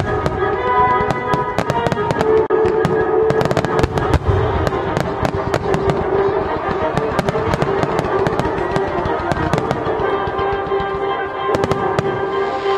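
Fireworks display: a dense, rapid run of shell bursts and crackles, over sustained music playing throughout.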